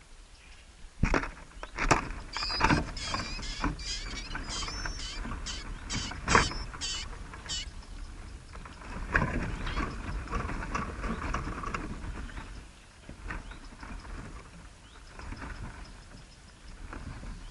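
Small birds chirping in a quick series of high calls, mixed with knocks and rustling.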